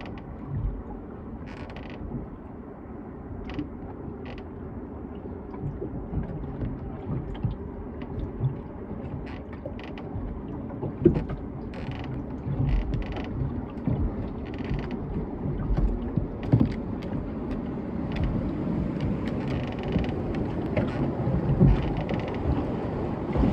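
Creaking and knocking of a rowed fishing boat's oars in their oarlocks, with scattered clicks over a steady low rumble of moving water.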